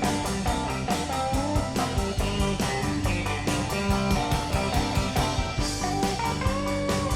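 Live Tex-Mex rock band playing an instrumental passage with no singing: guitar and drums keep a steady beat while a sustained lead line slides and holds over it.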